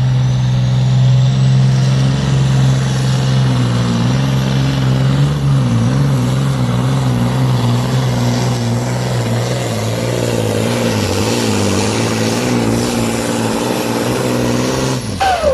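Diesel engine of a Supersport pulling truck running hard under load while it drags the weight sled: a deep, steady drone that starts to waver in pitch after about four seconds. Near the end the pitch sweeps quickly down.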